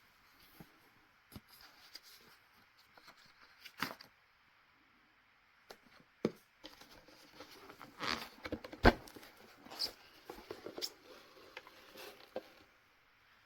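Scattered handling noises: taps, clicks and rustling, busiest in the second half, with one sharp knock about nine seconds in.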